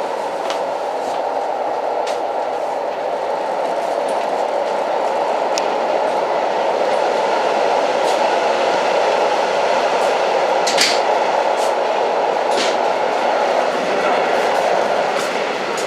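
Old train running along the track: a steady rumble with scattered sharp clicks and knocks at irregular intervals, the strongest a little past the middle.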